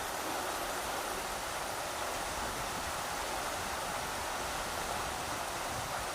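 Rushing river water making a steady, even rush of noise.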